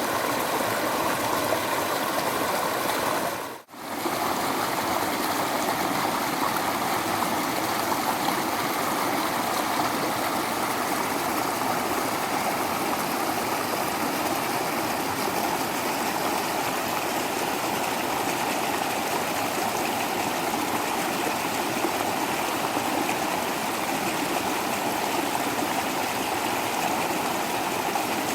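Waterfall water rushing and splashing steadily, with a brief drop-out a little under four seconds in, where the sound cuts to a slightly different mix of water noise.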